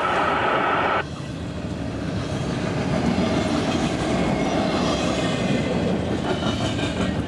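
Double-stack intermodal container train passing at close range: the rumble of its freight cars rolling on the rails, with some clicking over rail joints. A steady hiss stops abruptly about a second in.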